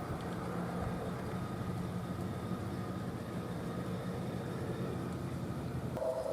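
G gauge model diesel locomotive running, a steady low hum with a faint higher whine over it. Just before the end a new, higher steady tone comes in.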